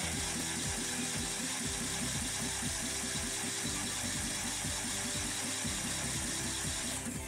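Daewoo Matiz A08S3 0.8-litre three-cylinder engine turning over on its starter with steady rhythmic pulses, cranked for a compression test on the third cylinder, which builds to 13.5 kg/cm². The cranking stops right at the end.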